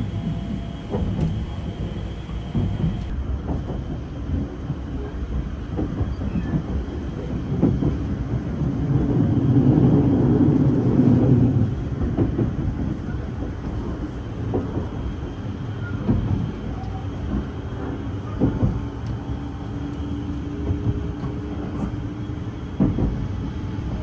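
285-series Sunrise Izumo sleeper train running, heard from inside a passenger car: a steady wheel-and-rail rumble with scattered rail-joint clicks. It grows louder for a few seconds near the middle.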